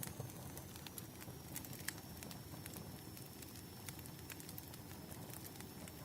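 Wood fire crackling: scattered sharp pops and snaps, a few a second, over a soft low rumble of burning logs.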